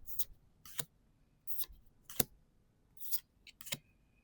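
Trading cards being slid off a stack one at a time, each a short papery swish ending in a sharp snap, about six in a row at a steady pace.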